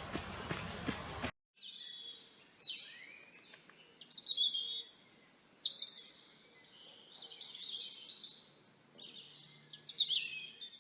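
Outdoor hiss from the field recording cuts off suddenly about a second in. Clean songbird chirps and short song phrases follow, with brief pauses between them.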